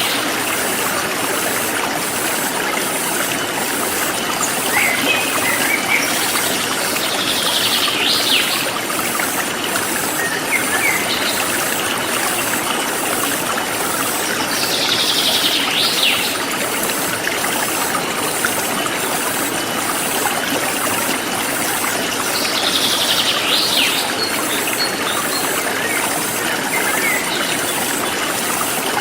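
Forest stream flowing and trickling steadily. Over it, a bird calls about every seven or eight seconds, with fainter chirps in between, and insects chirr in a fast, even pulse.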